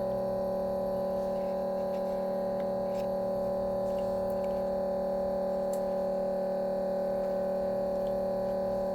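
Steady electrical hum at an even level, made of several constant tones with no change in pitch. A few faint light clicks sound over it, about three, four and six seconds in.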